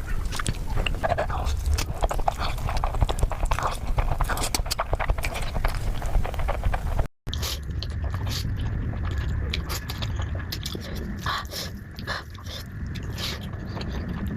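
A person eating spicy Korean noodles close to the microphone, with dense, wet chewing and biting sounds. About halfway through there is a brief silence, and then a second stretch of chewing with a duller, thinner tone.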